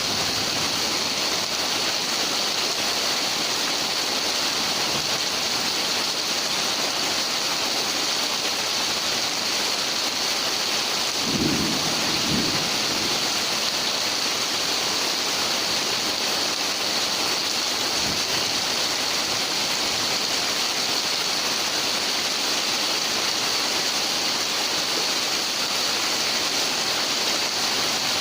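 Heavy rain pouring steadily, with a brief low rumble about eleven seconds in.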